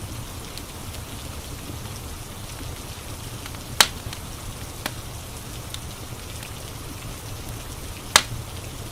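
Steady rain with a crackling wood fire: two loud, sharp pops, one about four seconds in and one near the end, and a fainter pop in between.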